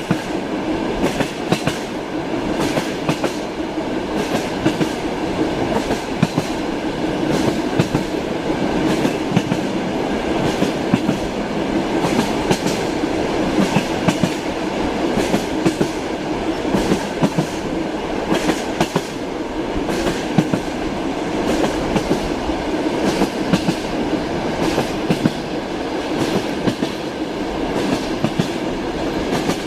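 Passenger train wheels clacking over rail joints, heard inside a train compartment: a steady running rumble with repeated sharp clickety-clack knocks, a few a second.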